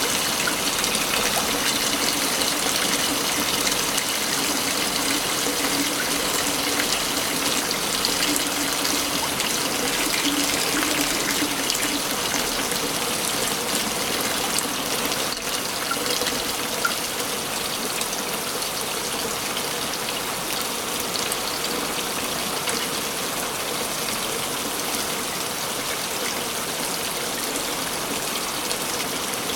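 Waterfall rushing steadily: a dense, even noise of falling water.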